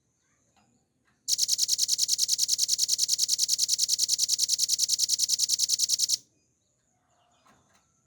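Velvet-fronted nuthatch (rambatan paruh merah) giving one fast, even, rattling trill of about ten high notes a second, starting about a second in and lasting about five seconds. Faint short chirps follow near the end.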